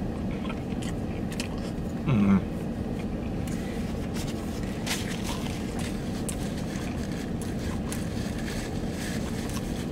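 A man chewing a mouthful of sushi roll over the steady low rumble of the parked car around him, with faint clicks of chewing. About two seconds in he gives a short falling 'mm' of approval.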